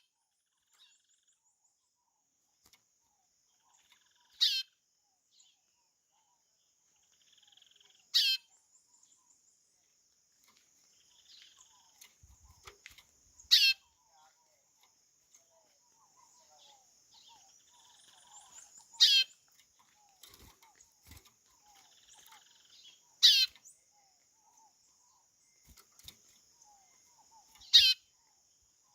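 Chorão (white-bellied seedeater) giving its call: six short, loud, falling whistles, one every four to five seconds, over a steady high hiss and faint, scattered chirps.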